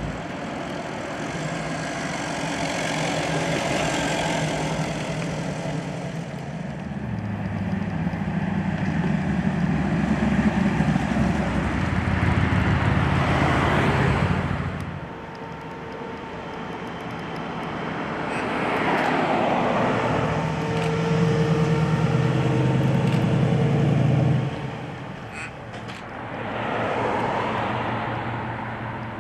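Cars driving past one after another, each engine rumble with tyre noise swelling as it nears and fading away. There are two longer, louder passes and a lighter one near the end.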